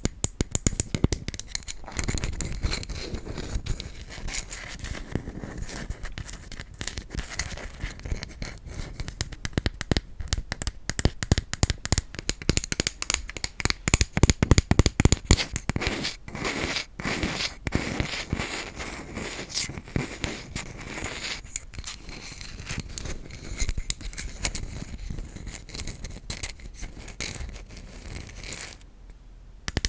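Quick, dense tapping and scratching on wooden objects, many sharp taps a second, with a brief pause near the end.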